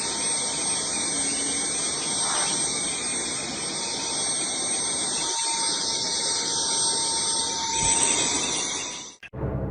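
Steady rushing, hissing noise, mostly high-pitched, with a faint thin whistle on top; it cuts off suddenly near the end.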